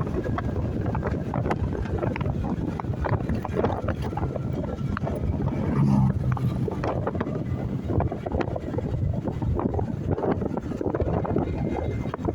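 Wind rumbling on the microphone of a motorcycle on the move, over steady vehicle noise, with a brief low tone about six seconds in.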